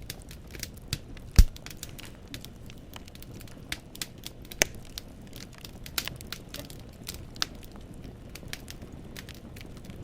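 Wood fire in a fireplace crackling: irregular sharp pops and snaps of burning logs over a low hiss, with one loud pop about a second and a half in.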